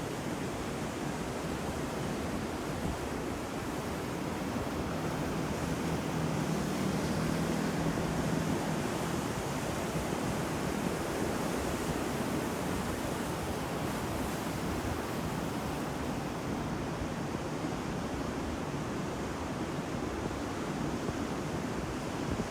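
Ocean waves breaking on the shore: a continuous roar of surf that swells a little about a third of the way through and then settles back.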